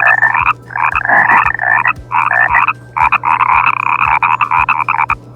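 Frogs croaking in bursts of rapid pulsed calls with short pauses between them; the longest burst lasts about two seconds.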